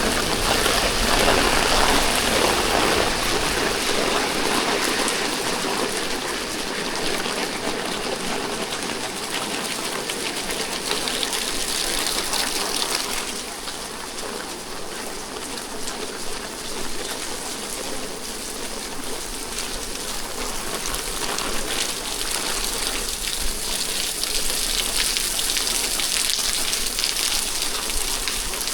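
Steady rain falling, a dense even hiss that eases a little about halfway through.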